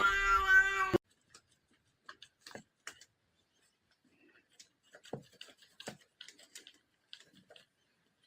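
A domestic cat's long meow, which cuts off abruptly about a second in, followed by faint scattered clicks and taps.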